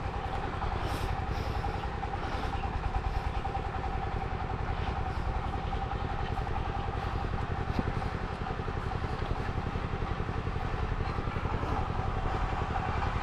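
A motor engine idling steadily, with a constant hum and a fast low pulsing.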